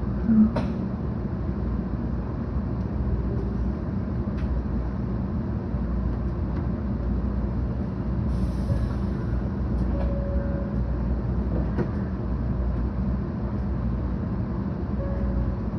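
Cabin noise of a 700 series Shinkansen train running: a steady low rumble. A sharp knock comes about half a second in, a few faint clicks follow later, and a brief hiss sounds a little past the middle.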